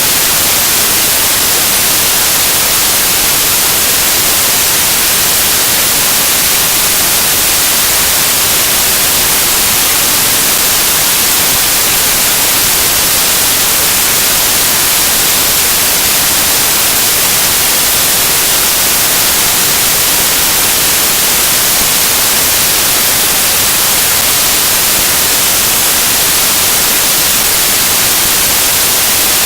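Loud, steady static hiss, even and unchanging, heaviest in the high end: a noise-filled audio track with no speech in it.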